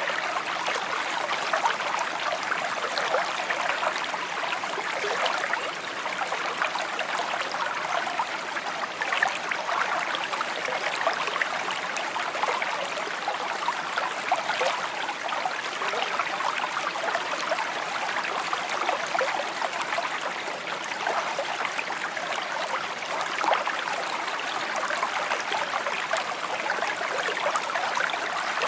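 Small stream flowing steadily, a clear babbling and trickling of water over stones.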